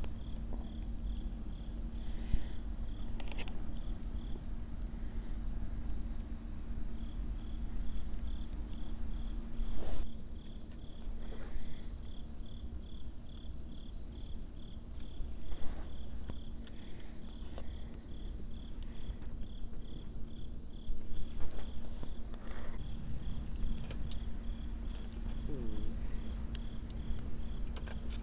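Autumn insects chirping: a steady high trill with a second insect's even, pulsing chirps, about two or three a second, over it. A few faint knocks come through now and then.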